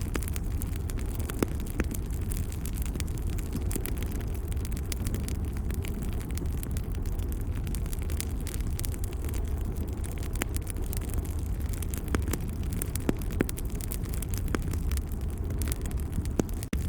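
Wood fire crackling: a steady low roar with frequent small snaps and a few sharper pops.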